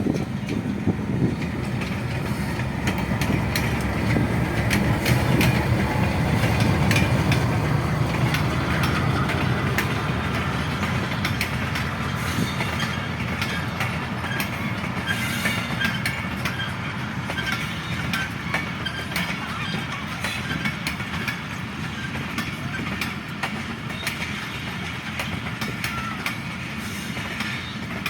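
Awam Express passenger train running through without stopping: a steady rumble of the coaches rolling by, with rapid clicks of the wheels over the rail joints. It is loudest a few seconds in and eases slightly toward the end.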